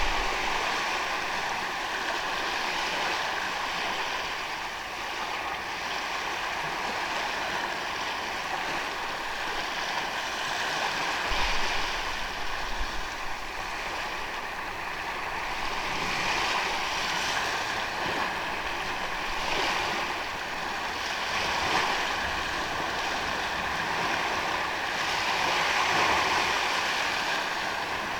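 Small sea waves washing onto a sandy beach: a continuous wash that swells and eases every few seconds.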